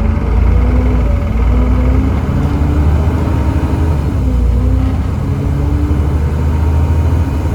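Volvo D7C 7.3-litre diesel of a Volvo B7TL double-decker bus pulling under load over a deep, steady rumble. Its pitch climbs and then steps back down several times as the ZF Ecomat automatic gearbox changes up.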